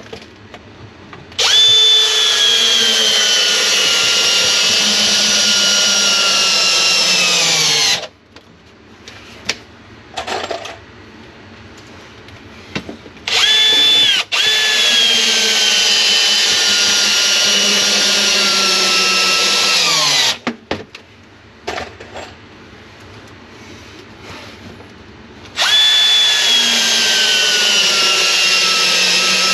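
Power drill driving long wood screws into 2x4 framing and studs, three long runs. Each time the motor whine sags in pitch as the screw bites in, then winds down, with a few small knocks between runs.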